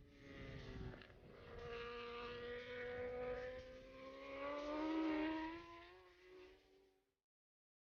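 Kawasaki Ninja ZX-RR MotoGP bike's engine running on track, its pitch sagging and then climbing. It is loudest about five seconds in, then fades away and cuts off suddenly about seven seconds in.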